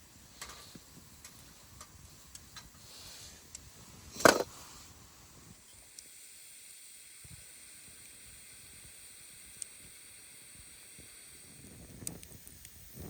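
Campfire being lit: faint small crackles, a single sharp loud crack about four seconds in, then a steady hiss for the rest.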